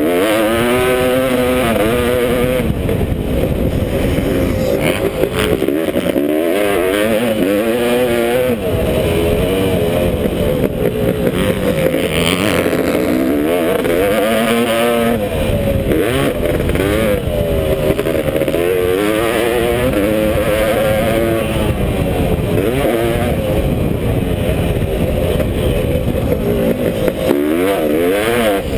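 Two-stroke single-cylinder CR500 motocross engine, in a KTM frame, being ridden hard: the engine pitch climbs and drops again and again as the throttle is opened and shut every second or two.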